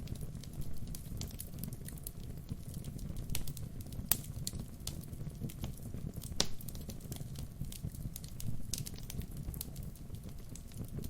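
Wood fire burning: a steady low rumble of the flames with irregular crackles and snaps of burning wood, two sharper pops about four and six and a half seconds in.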